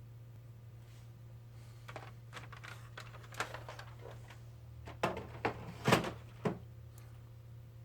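Small objects being handled and set down on a hard surface: a scatter of clicks, rustles and knocks, loudest about six seconds in, over a steady low hum.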